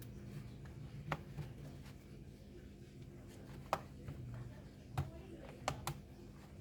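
A handful of sharp clicks and taps, about five, from hands and tools working on the plastic case of a Dell Latitude 3580 laptop as its loosened bottom cover is worked free, over a faint steady low hum.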